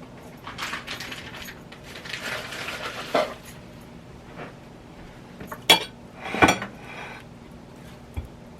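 Kitchen dishes and utensils clinking and scraping while food is handled. Two sharp, loud clinks come near the middle.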